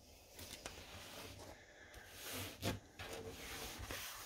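Faint handling noise: rubbing and rustling with a couple of soft knocks, as a clamped camera or painting is moved about.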